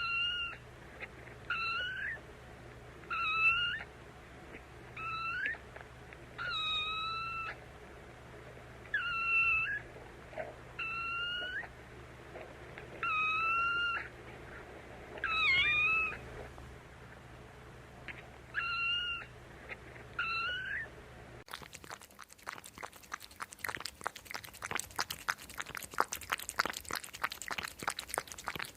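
A cat meowing about a dozen times, each meow short and high-pitched, several of them dipping in pitch at the end. About 21 seconds in the meows cut off abruptly and a dense, irregular crackling noise follows.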